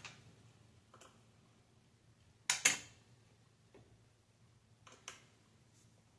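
Light clicks and taps of a small screwdriver on the console's plastic and metal parts, with a sharp double click about two and a half seconds in and a few fainter ticks around it.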